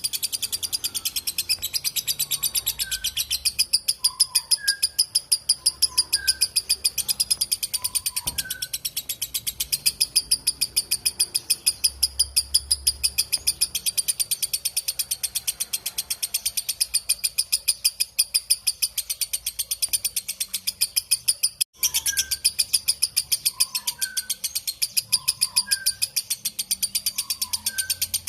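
Lovebird giving its long ngekek song: a continuous, rapid, high-pitched chattering trill that breaks off only once, very briefly, near the end. Fainter short chirps sit beneath it.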